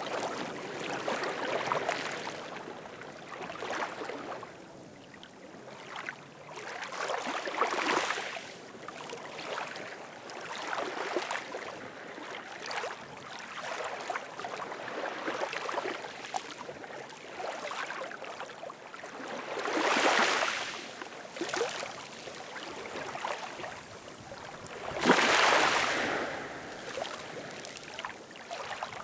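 Ocean waves washing in, a rushing surge of water every few seconds that swells and fades, with two larger waves late on, a few seconds apart.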